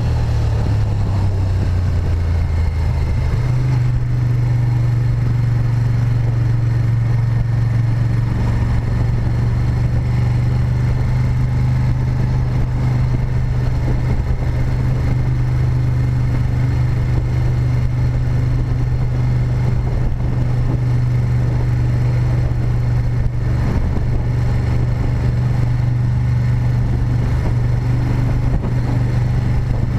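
Moto Guzzi Griso 8V SE's transverse V-twin engine running steadily under way, heard from on board the motorcycle. Its note steps up in pitch about three seconds in, then holds.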